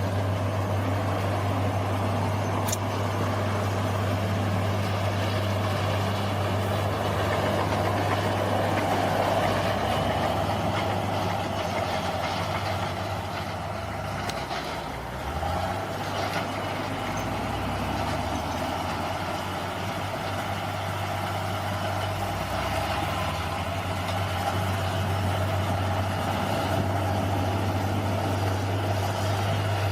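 Bulldozer's diesel engine running steadily, with a brief drop in level about halfway through.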